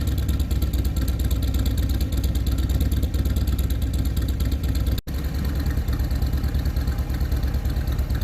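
2008 Harley-Davidson Street Glide's Twin Cam 96 V-twin idling through stock slip-on mufflers, with a steady pulsing beat. About five seconds in, a sudden cut switches to the idle with the other set of stock slip-ons.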